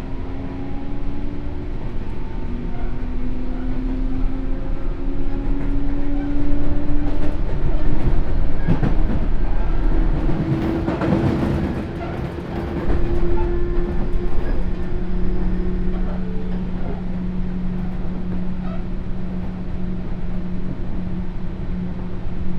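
Sotetsu New 7000 series electric train running, its Hitachi GTO-VVVF inverter and traction motors whining in several tones that rise slowly in pitch through the first half. A louder stretch of wheel-and-rail rumble comes around the middle, and the last third settles into a steady low hum over the running noise.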